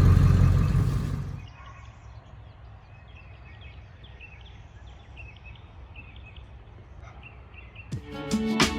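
Low rumble of the Ford Super Duty's 7.3 diesel engine fades out in the first second, leaving a quiet outdoor background with small repeated bird chirps. Acoustic guitar music starts near the end.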